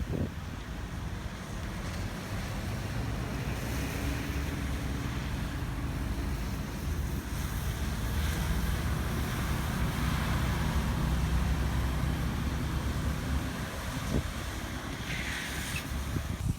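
Electric suburban train running, a steady rumble with a low hum that swells through the middle and eases off toward the end.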